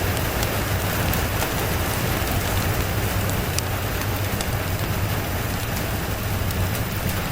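Steady rain, with scattered sharp ticks over a low, steady rumble.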